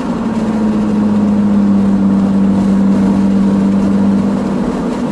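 2011 Nissan Maxima SV's 3.5 L V6 with custom exhaust, cruising at highway speed with a steady low drone as the CVT holds the revs constant. Road and wind noise comes in through the open windows.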